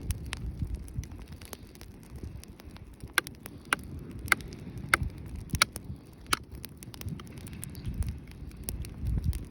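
Wood campfire crackling, with sharp pops that come thickest about halfway through, over a steady low rumble.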